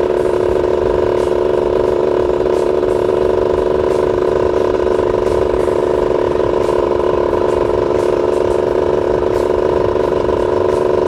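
Yamaha F1ZR's single-cylinder two-stroke engine running at a steady cruise, its note holding one pitch throughout, with wind rumble on the microphone.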